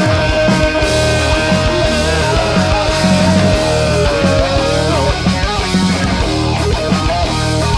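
Loud, distorted rock band playing live: drums, bass and electric guitars, with one long held high note that wavers, bends about five seconds in and then breaks off.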